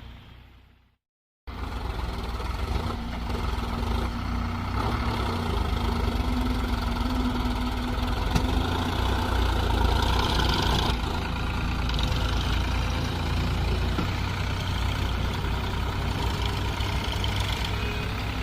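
Tractor diesel engine running steadily after a brief cut to silence about a second in.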